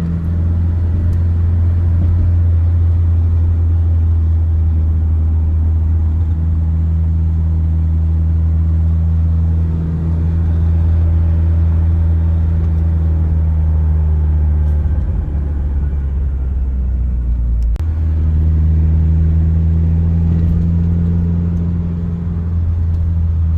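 Saturn Ion's engine and road noise heard from inside the car while driving: a steady low drone. It dips briefly about fifteen seconds in and picks up again after a short click near eighteen seconds.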